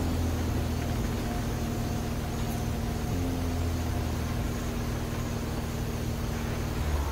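Car engine running, a steady low hum with no sharp events.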